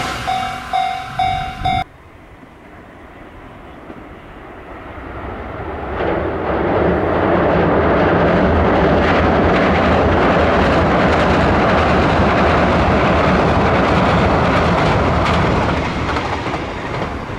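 A train approaching and passing close by, a loud rumble with wheels clicking over the rail joints, easing off near the end. It is preceded by a few pulses of a steady high electronic tone that cut off abruptly about two seconds in.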